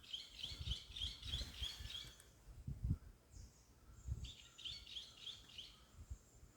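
A small bird chirping in two bouts of quick, repeated high notes, separated by a pause of about two seconds. Scattered low thumps run underneath, and the loudest comes near the middle.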